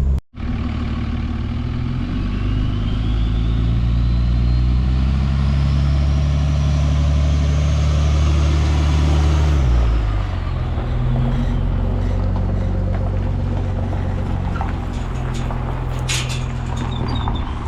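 Truck engine running steadily while driving on the road, with a faint whine that rises in pitch over several seconds. About ten seconds in the engine note drops, and a few sharp clicks come near the end.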